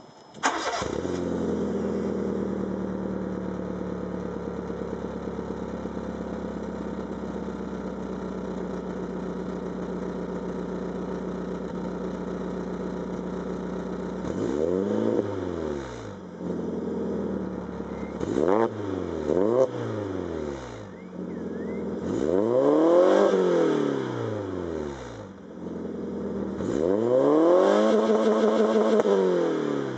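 Fiat Grande Punto 1.4 four-cylinder petrol engine breathing through a full sports exhaust: it starts about half a second in and settles to a steady idle. Then it is revved several times, two quick blips and then two longer revs near the end, the pitch rising and falling with each.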